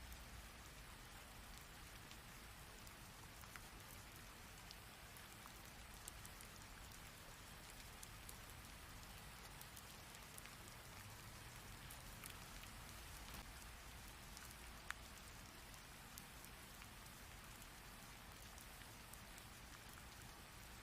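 Rain falling steadily: a dense hiss with many individual drops ticking through it, and one sharper drop hit about fifteen seconds in.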